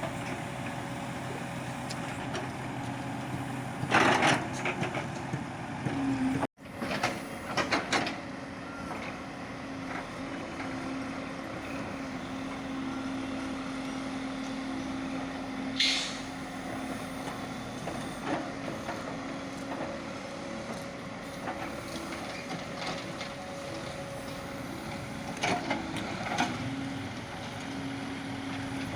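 JCB backhoe loader's diesel engine running steadily under digging load, broken by several loud clanks and scrapes of the bucket working the soil. The loudest are about four seconds in and around seven to eight seconds, with more near the end. A short hiss comes about halfway through.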